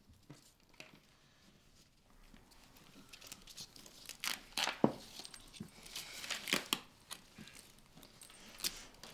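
Irregular rustling, crinkling and tearing handling noises with scattered sharp clicks. Very faint for about two seconds, then louder and busier.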